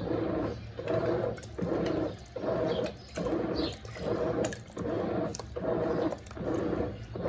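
Brastemp Eggo 1 kg mini washing machine in its wash agitation: the motor churns the water and clothes in regular swells about every 0.8 seconds, over a steady low hum.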